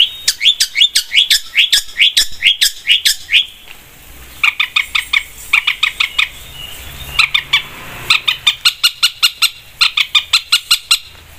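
Long-tailed shrike (cendet) in full song: fast runs of sharp, repeated chirping notes, about three or four a second, broken by short pauses.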